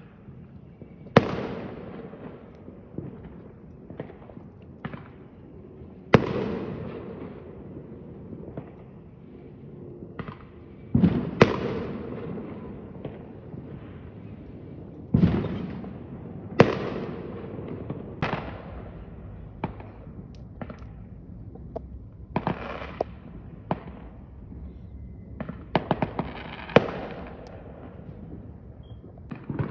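Fireworks going off: a string of loud bangs at irregular intervals, each trailing off in a long fading rumble, with smaller pops and crackles between them.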